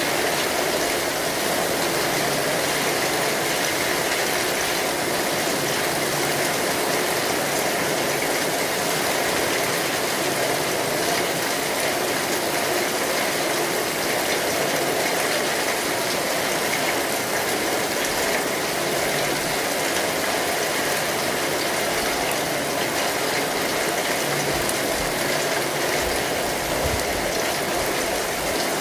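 Steady, dense rain falling on an umbrella canopy, an even unbroken hiss of drops.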